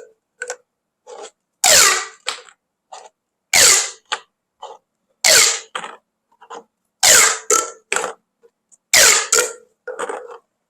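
Corrugated plastic pop tubes being stretched and squeezed: five loud pops, each with a quick falling hoot in pitch, about every two seconds, with smaller, softer pops in between.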